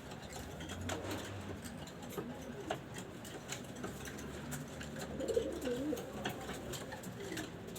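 Pigeons cooing: low, wavering calls that are loudest about five to six seconds in, with scattered light clicks.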